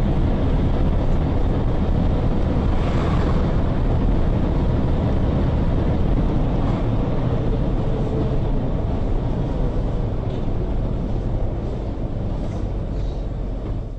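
Steady, loud rumble of a car on the move, heaviest in the low end, with no sharp impacts.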